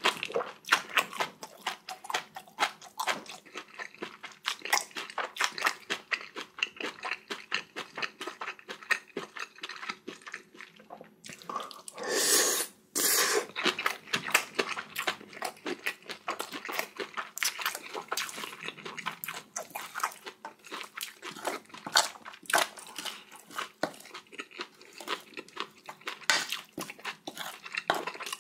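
Close-miked chewing of spicy bibimbap and kimchi: rapid wet, crunchy mouth clicks throughout, with one louder rushing noise lasting about a second and a half about twelve seconds in.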